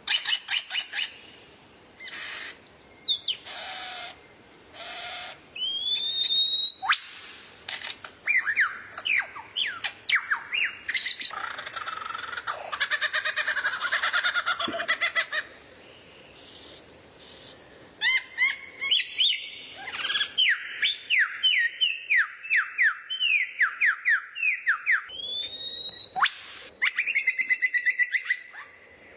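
Songbird singing a loud, varied song: clipped calls, rising whistled notes, and long runs of quick sharp chirps, several a second, with short pauses between phrases.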